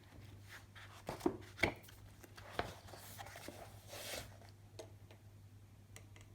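A few light, separate knocks and clicks, the loudest pair about a second and a half in, over a low steady hum.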